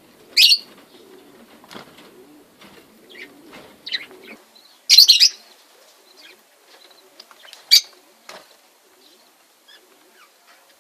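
Aviary birds chirping, with three loud sharp bursts about half a second, five seconds and nearly eight seconds in.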